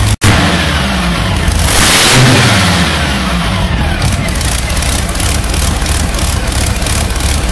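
Modified tractor-pulling tractor's engine running loud at high revs, with the pitch rising as it revs up about two seconds in. A brief break in the sound just after the start.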